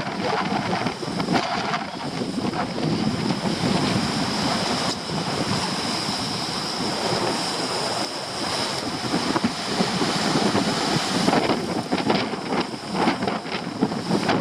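Storm surf crashing and washing against a rocky shore, with very strong wind buffeting the microphone. A long steady rush of surf runs through the middle.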